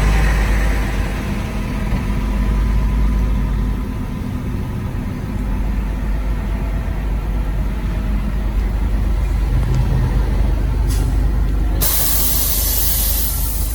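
Charter bus engine running with a steady low rumble. Near the end there is a brief hiss and then a louder hiss of air lasting about two seconds, from the bus's air brakes.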